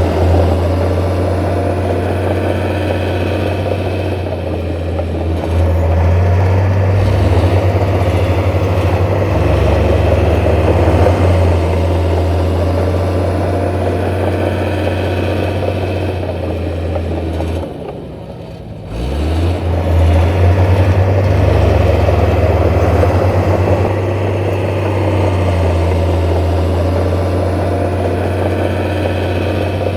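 Diesel engines of heavy earthmoving machinery running steadily, dipping briefly about two-thirds of the way through before picking up again.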